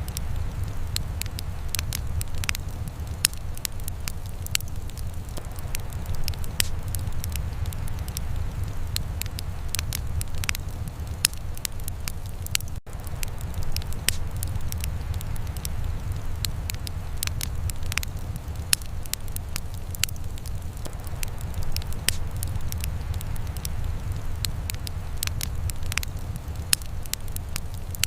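Wood fire crackling and popping with many sharp snaps, over a steady low rumble. A split-second break in the sound about halfway through.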